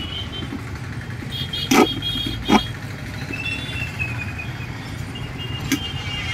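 Steady low rumble of road traffic, with two sharp knocks about two seconds in and a thin high tone coming and going over it.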